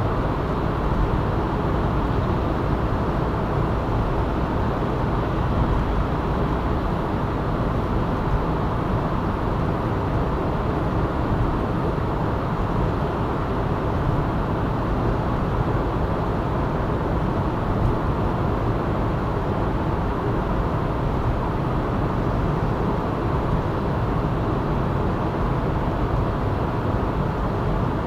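A car driving, with a steady, even rumble of road and engine noise and no sudden events.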